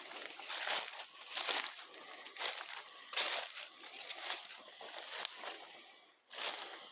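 Footsteps crunching through dry leaf litter and twigs on a forest floor, irregular steps about one or two a second.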